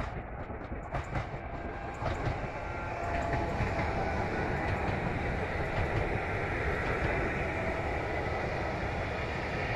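Electric multiple-unit passenger train passing close by: a steady rumble of wheels on rail that grows louder about three seconds in as the train draws level, with a few sharp clicks in the first couple of seconds.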